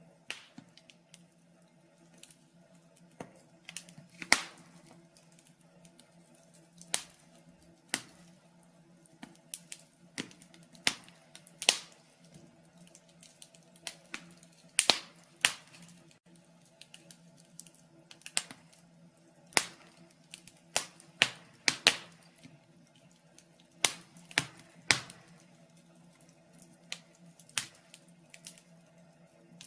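Wood fire in a fireplace crackling: irregular sharp pops and snaps, a few of them much louder, over a faint steady hum.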